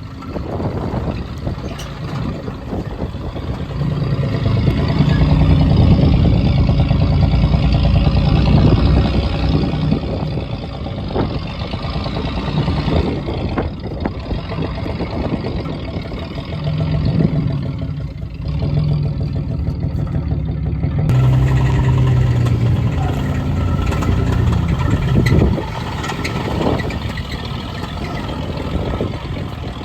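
Buick car engine running with its pitch rising and falling as it is revved, with a sudden change in the sound about two-thirds of the way through.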